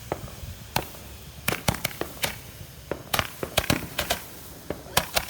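Consumer fireworks going off: an irregular, rapid series of sharp bangs and cracks, some in quick clusters.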